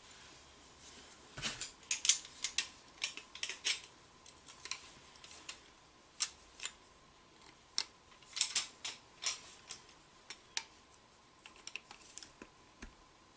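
Channel-lock pliers gripping and turning threaded pipe fittings as they are tightened: irregular metallic clicks and snaps, in clusters with short pauses.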